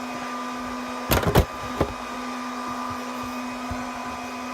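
Dell R210 rack server's cooling fans running fast with a steady whir and hum, still ramped up after the cover was opened and not yet spun back down. A few sharp knocks about a second in.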